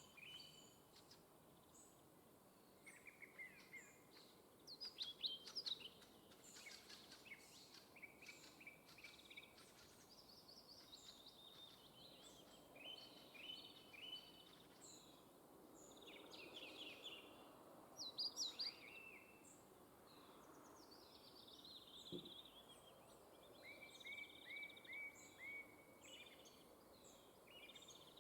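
Birds calling near the nest: many short, high chirps and trills throughout, with louder bursts of calls about five seconds and eighteen seconds in, and a run of five quick falling notes near the end.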